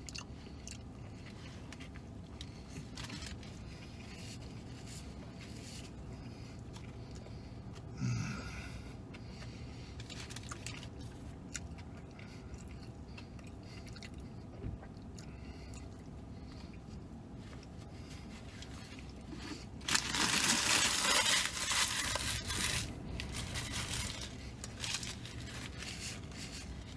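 A man chewing a mouthful of burger, with small wet mouth clicks. About twenty seconds in, a louder stretch of paper crinkling as a napkin is handled.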